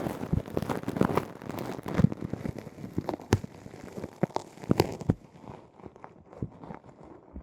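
Close-miked ASMR ear-cleaning sounds: a tool working at an ear, making dense, irregular clicks and crackles. About five seconds in they thin out to fewer, duller clicks.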